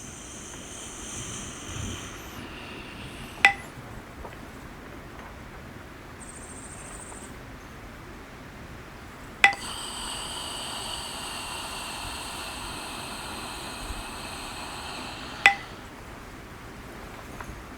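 A small metal chime or bell struck three times, about six seconds apart, each strike followed by a high, lingering ring.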